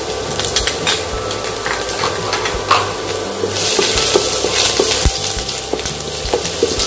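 Chopped garlic and ginger sizzling in hot oil in a nonstick wok, stirred with a wooden spatula that clicks and scrapes against the pan; the sizzle swells about halfway through.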